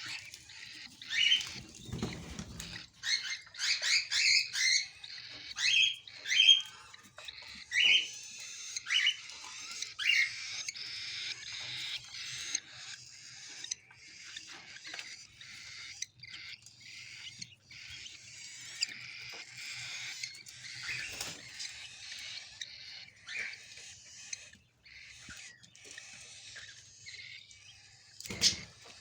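Cockatiel chick begging to be fed: many short, high squeaky chirps at first, then a steadier rasping squeal. A low thump comes about two seconds in and another near the end.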